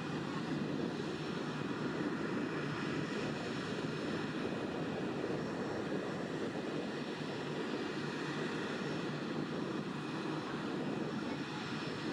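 Jet airliner engines running with a steady, even noise that neither rises nor falls, with a faint high whine above it.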